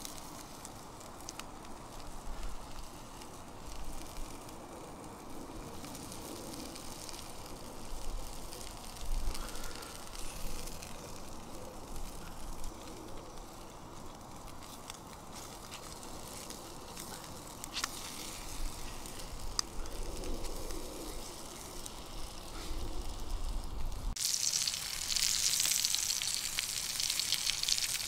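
Campfire crackling with an occasional sharp pop, under sausages sizzling in a pan over the fire. About 24 seconds in the sizzling becomes suddenly much louder and brighter.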